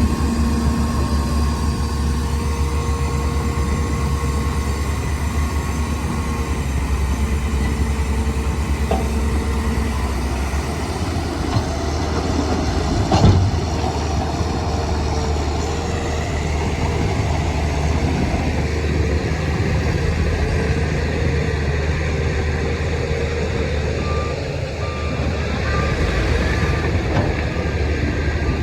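Heavy diesel engines of a bulldozer and dump trucks running steadily, with one sharp knock about halfway through. Near the end a reversing alarm starts beeping at an even pace.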